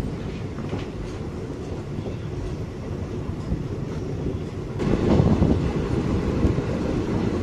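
Passenger train running along the track, heard from a coach: a steady rumble and clatter of the wheels, louder from about five seconds in.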